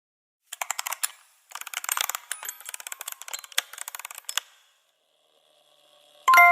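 Two spells of rapid clicking and rattling, the second about three seconds long, like a small mechanism or hard objects being handled. Glockenspiel-like music begins right at the end.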